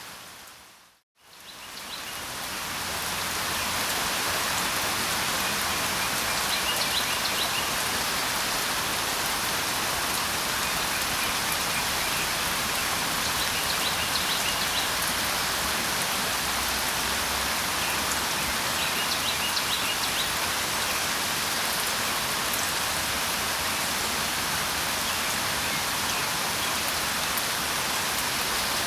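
Steady rain falling as a dense, even patter, with faint high bird chirps every several seconds. About a second in the sound dips to silence, then fades back up over the next few seconds.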